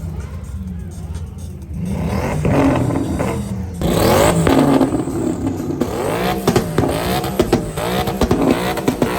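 Car engines revving up and down again and again, with sharp cracks among the revs. It gets louder about four seconds in.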